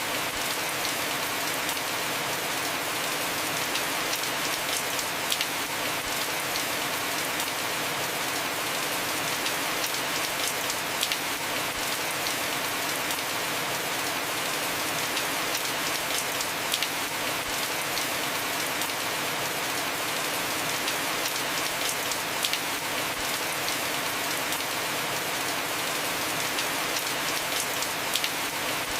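Heavy rain falling steadily on a house roof, a dense even hiss with the sharp ticks of individual drops scattered through it.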